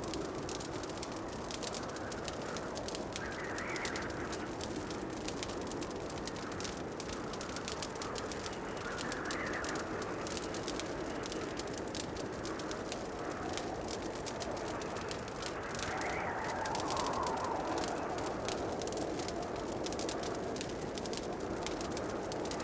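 Wood fire crackling in a fireplace: dense, irregular small pops and snaps over a steady hiss, with soft swelling sounds every few seconds.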